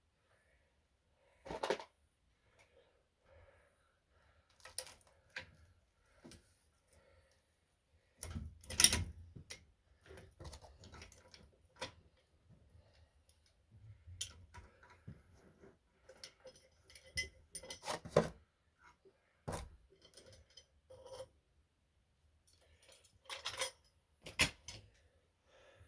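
Scattered metal clinks, knocks and rattles of a coil spring compressor and tools being handled and worked, irregular and separate, with a sharper clank about nine seconds in.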